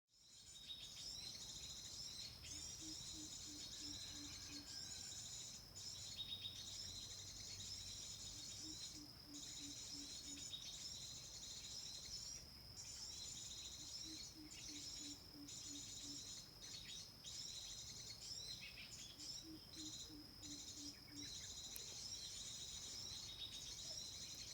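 Many small birds chirping and twittering continuously, high-pitched and dense. Under them, a low call of about six short pulses repeats every five to six seconds.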